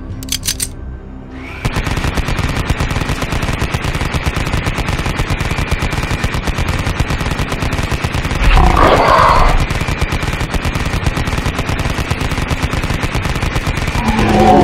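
Rapid, sustained gunfire from several rifles, many shots a second, beginning about a second and a half in. A Tyrannosaurus roars over the shooting about eight and a half seconds in, and again near the end.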